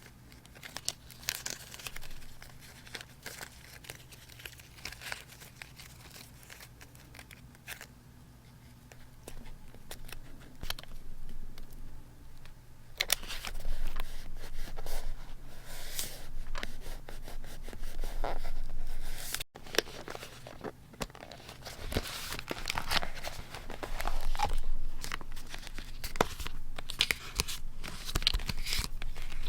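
Paper being handled by hand, crinkled and torn: light scattered rustles at first, then denser, louder rustling and tearing from about halfway through.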